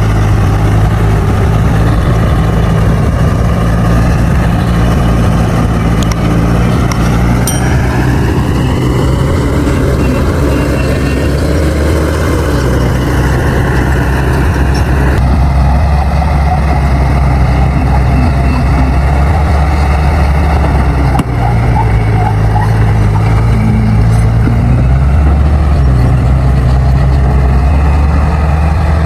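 Bulldozer's diesel engine running loud and continuously under load, its pitch dipping and rising a few times as the load changes.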